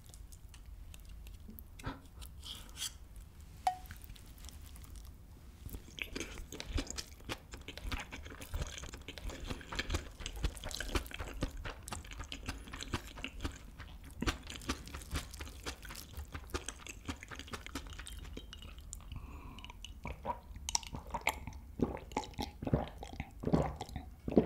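Close-miked chewing of kimchi fried rice topped with cheese: steady wet mouth sounds with small crunches and clicks. Near the end comes a drink from a glass.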